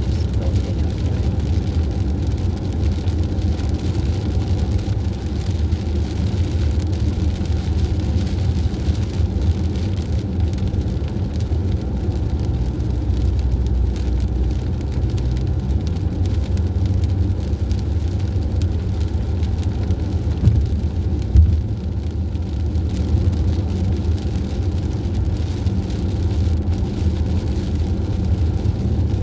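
Steady engine and road rumble of a vehicle cruising along a highway. Two short knocks come about two-thirds of the way through.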